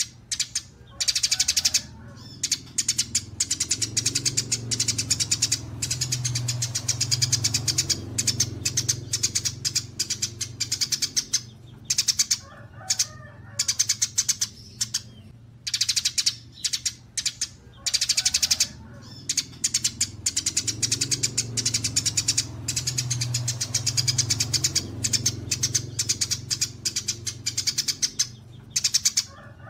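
Recorded songbird calls: rapid, evenly spaced high chirps in bursts of a couple of seconds, with short gaps between them, over a steady low hum.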